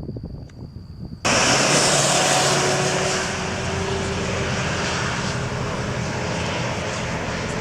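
Aircraft engine drone, a steady, dense roar with a low hum, cutting in abruptly about a second in.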